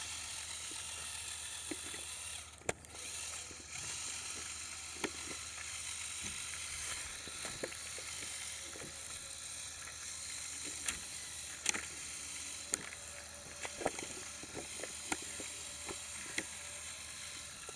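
A Lego Technic RC truck's electric motors and plastic gears whirring steadily as it crawls off-road. The whir drops out briefly about two and a half seconds in. Scattered clicks and knocks follow, several sharper ones near the end.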